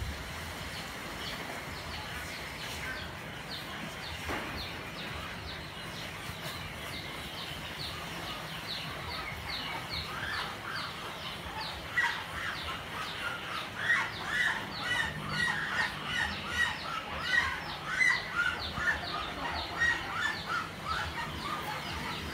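Birds chirping outdoors, with a louder run of repeated short calls starting about halfway through.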